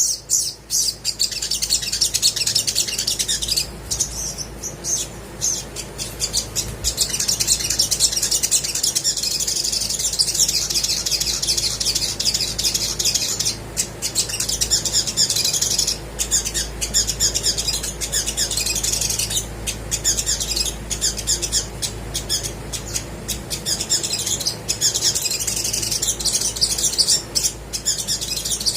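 Olive-backed sunbird singing hard and without pause: a fast, high-pitched chatter of chirps, trills and sharp ticks, briefly thinning a few times.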